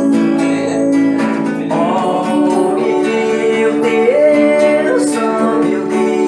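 Gospel song accompaniment led by a strummed acoustic guitar, with a sustained melodic line that slides up to a higher held note partway through.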